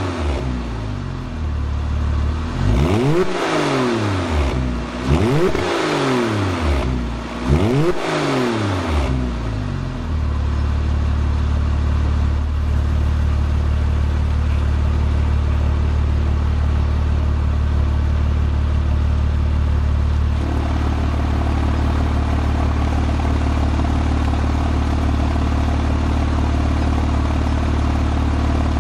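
Porsche 997 Carrera S 3.8-litre flat-six blipped through an Innotech performance exhaust: four quick revs that rise and fall in the first nine seconds, then it settles to a steady idle.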